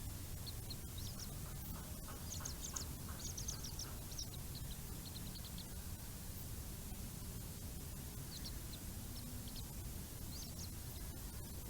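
Bird calls: two bouts of quick, short, high-pitched chirping notes, the first about a second in and the second a little past halfway, over a steady low rumble.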